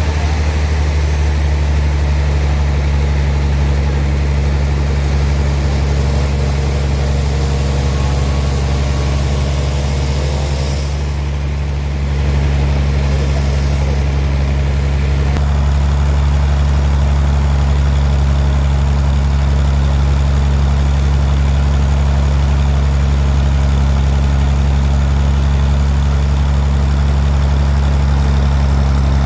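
Bandsaw sawmill machinery running with a steady deep hum, briefly dipping about eleven seconds in before settling back to a steady level.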